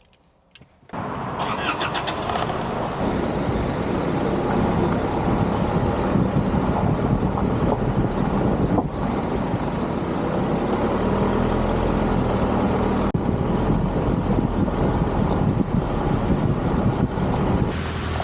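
A car engine starts about a second in, then runs steadily.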